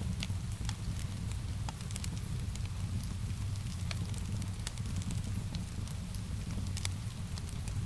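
Wood fire crackling in a fireplace: irregular sharp pops and snaps over a steady low rumble, with a soft hiss of rain mixed in.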